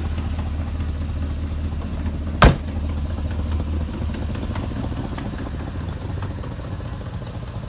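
A 2004 Chevrolet Silverado dump truck's engine idling steadily, with the exhaust leak that the owner puts down to a broken front bolt on the exhaust manifold; the low hum fades somewhat after about four seconds. A single sharp knock sounds about two and a half seconds in.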